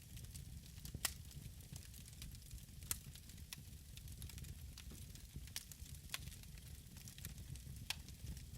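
Wood fire burning in a fireplace: a low steady rumble of the flames with irregular crackles and sharp pops, the loudest about a second in, around three seconds, near six seconds and just before the end.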